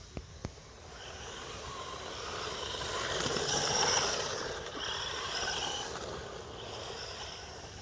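A brushless 1/10 scale RC rally car driving over a dirt woodland path, its tyre and motor noise growing louder to a peak about halfway through and then fading as it passes and moves off. Two sharp clicks come just before it builds.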